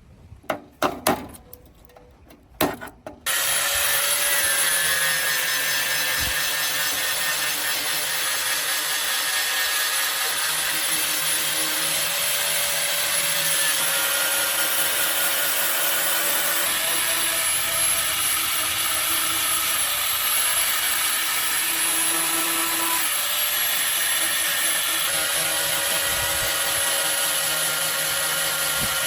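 A handheld abrasive power tool working on the truck cab's metal shell, running steadily from about three seconds in, after a few sharp knocks.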